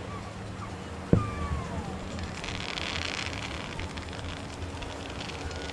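A single fireworks shell bursting with a sharp boom about a second in, followed about a second later by a burst of crackling from the sparks.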